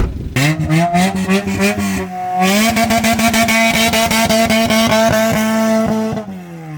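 An old rally car's engine driven hard at high revs: a sharp knock at the start, then the engine note climbs, dips briefly about two seconds in as with a gear change, holds steady and loud with crackling clicks over it, and falls in pitch near the end.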